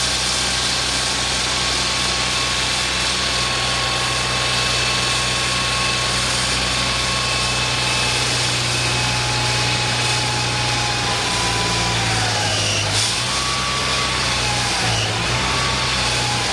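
An engine idling steadily, with a whining tone that dips and rises several times near the end.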